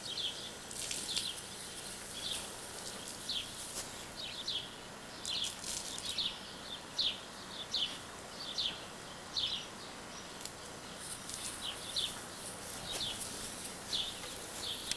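A small bird chirping over and over outdoors, short high chirps coming irregularly about once or twice a second.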